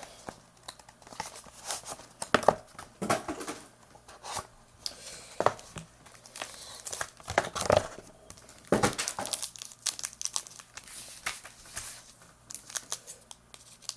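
Plastic wrapping crinkling and tearing as a sealed trading-card box and pack are opened by hand, with irregular crackles and several sharper rips.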